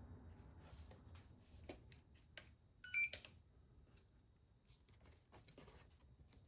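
A single short electronic beep about three seconds in, a few stacked high tones, as the RC car's electronics are switched on. Light clicks and taps of handling the car and transmitter come before and after it.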